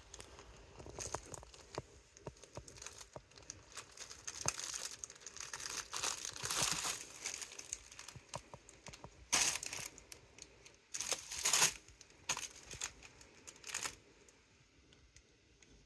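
A kitten pawing and biting at crinkly plastic snack packaging, bags of chips and crackers, in irregular bursts of crinkling and rustling. The loudest crinkles come about two-thirds of the way through, and it quiets near the end.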